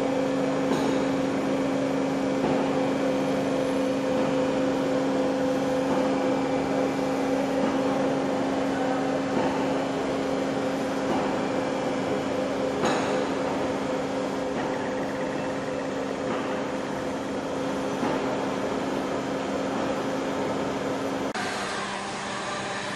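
Machinery running with a steady hum made of several held tones, with an occasional sharp click. The sound changes suddenly near the end.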